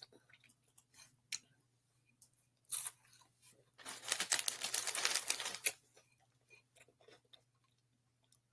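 A person chewing crunchy food close to the microphone: a few faint clicks, then a dense crackling crunch lasting about two seconds from about four seconds in.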